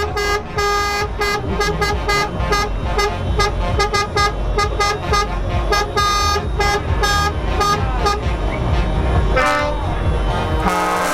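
Truck horns tooting in a rapid string of short pitched blasts over the deep rumble of truck engines.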